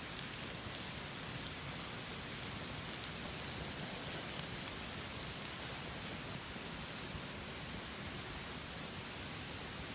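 Open wood campfire burning: a steady hiss with a few small, sharp crackles scattered through it.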